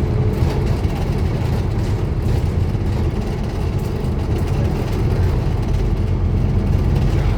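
Scania N230UD Omnicity double-decker bus's five-cylinder diesel engine running steadily with a deep hum and no marked change in revs.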